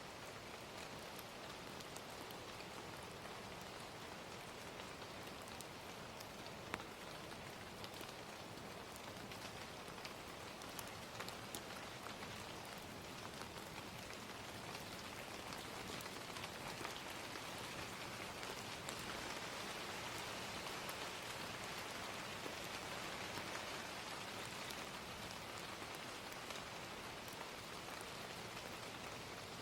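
Recorded ambience of gentle rain falling steadily, with small crackles from a wood fire scattered through it and one sharper pop about seven seconds in. It swells slightly louder in the middle.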